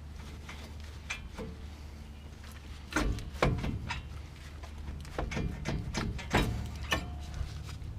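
Irregular metallic knocks and clicks from handling the brake caliper, its bracket and tools, with the loudest knocks about three seconds in and again past six seconds, over a steady low hum.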